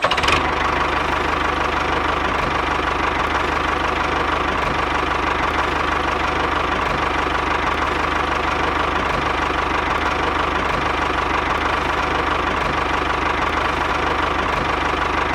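Small motor of a DIY mini tractor running steadily at an even speed, with a fast pulsing chatter.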